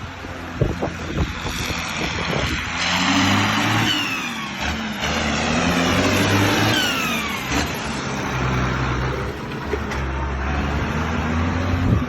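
Ford 8210 Series 3 turbo tractor's six-cylinder turbo diesel engine running, its pitch rising and falling as it is revved, with a couple of high whistles sliding down in pitch partway through.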